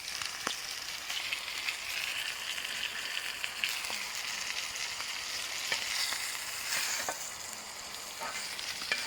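Masala-coated fish pieces sizzling steadily in oil on a hot dosa griddle, with scattered sharp ticks and crackles; the fish is fully cooked and crisp.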